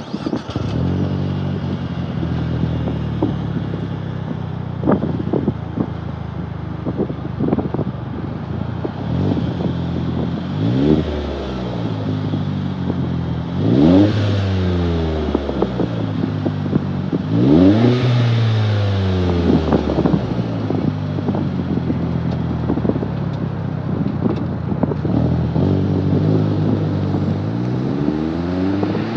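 Chevy Sonic 1.4-litre turbo four-cylinder running through a Megan Racing cannon-style muffler, idling and revved in quick blips. There are three big blips about a third of the way in, each rising sharply and falling back to idle, with smaller rises around them.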